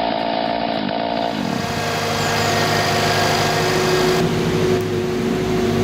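A motor running at high revs stops abruptly about a second in, and a lower, steady engine note takes over and keeps running evenly.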